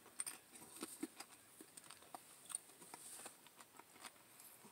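Faint mouth sounds of someone chewing soft lentil chili: scattered small clicks and lip smacks.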